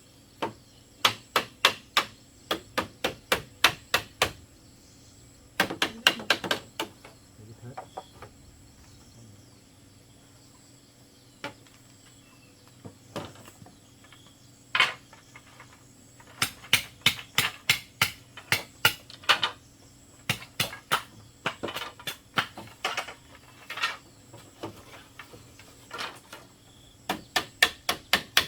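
Hammer blows, apparently driving nails into bamboo, coming in runs of about three quick strikes a second with pauses between. Insects buzz steadily in the background.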